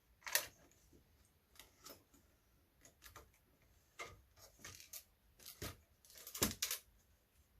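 Small metal scrap pieces clinking and clattering as they are handled and dropped, in irregular sharp clicks. The loudest clatter comes about six and a half seconds in.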